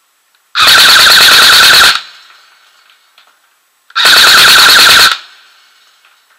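Airsoft electric gun (AEG) firing two full-auto bursts, each a little over a second long, about three seconds apart, running on a 7.4 V LiPo battery. Each burst is a very loud, fast rattle of shots.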